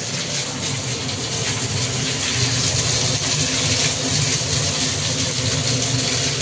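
Marinated chicken pieces frying in hot oil: a steady sizzle with fast crackling, over a low steady hum.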